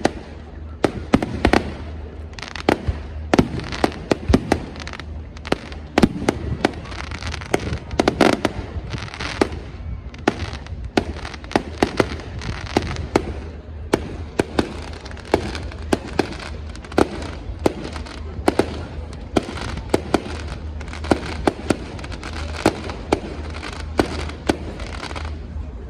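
Fireworks display: a rapid, irregular barrage of bangs and crackles, several a second, over a continuous rumble.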